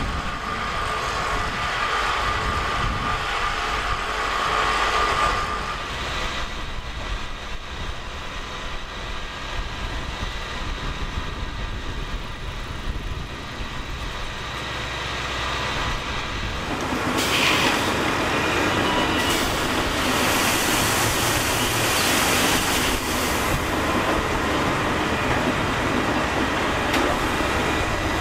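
A train running on the rails, the noise of its wheels on the track swelling sharply about two-thirds of the way through and staying loud.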